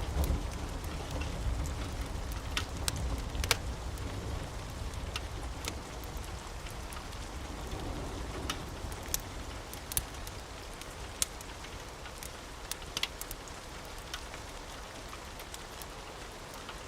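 Steady rain falling, with scattered sharp clicks throughout and a low rumble that is strongest in the first few seconds and then eases.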